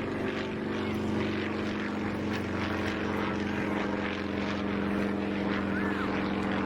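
A steady engine drone, even in pitch and level throughout, with a short rising-and-falling call heard faintly near the end.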